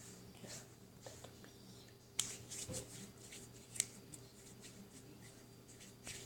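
Slime being handled and squeezed, giving a scatter of small sticky clicks and pops, with two sharper snaps about two seconds in and again near four seconds.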